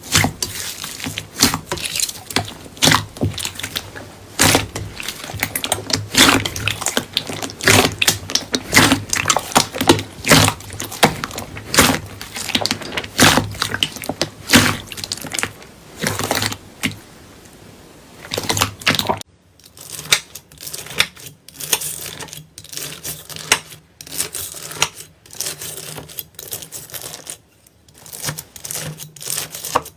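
Slime being worked by hand, with dense, irregular clicking and crackling pops. About 19 seconds in there is a cut to another clip, with a quieter background and sparser clicks.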